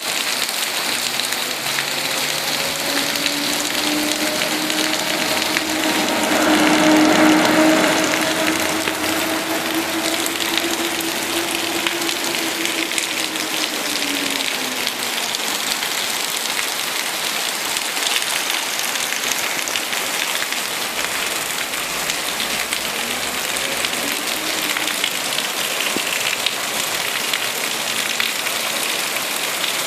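Steady tropical rain pouring. A low droning hum swells and fades over it, loudest about 7 seconds in and gone by about 15 seconds.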